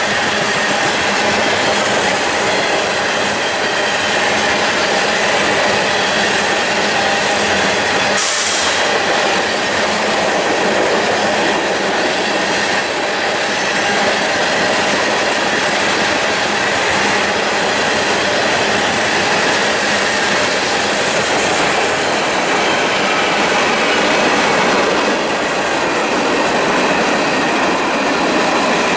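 A long CSX freight train rolling steadily past: a constant rumble of wheels on rail, with clickety-clack over the rail joints and a thin wheel squeal. A brief hiss comes about 8 seconds in.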